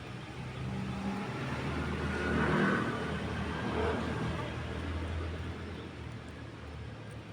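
A motor vehicle engine running with a low hum, swelling louder about two and a half seconds in and then easing off.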